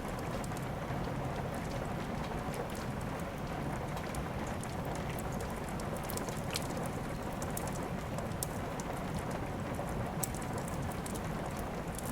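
Steady rain falling, mixed with a wood fire in a fireplace crackling in irregular sharp pops.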